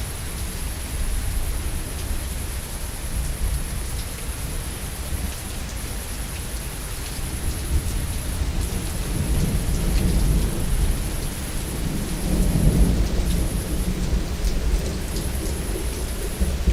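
Steady rain falling, with low thunder rumbling beneath it that swells to its strongest about three-quarters of the way in, then eases.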